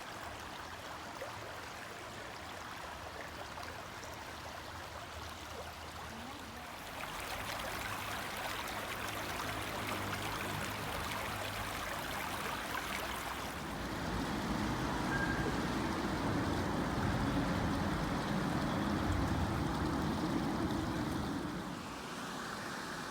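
Small forest stream running and trickling over stones, a steady watery rush that grows louder partway through and takes on a deeper, fuller sound for several seconds before easing near the end.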